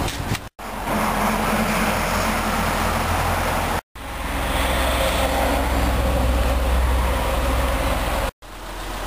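Steady vehicle noise: a 2009 Dodge Journey SXT's 3.5-litre V6 idling, mixed with a broad outdoor rush of traffic, broken by short drops to silence at about half a second, four seconds and eight seconds in.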